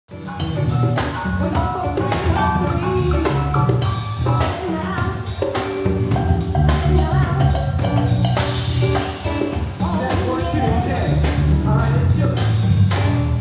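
A live band playing a short instrumental sampler, a beat on a drum kit over sustained pitched instrument lines; the music cuts in abruptly.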